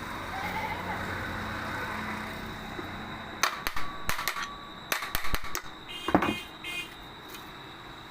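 A run of sharp clicks and knocks starting about three and a half seconds in, from metal ceiling fan parts being handled and fitted back together during reassembly, over a steady low background hum.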